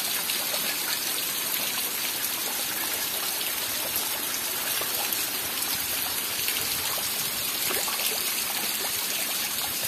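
Heavy rain falling steadily, with running water trickling and scattered drips.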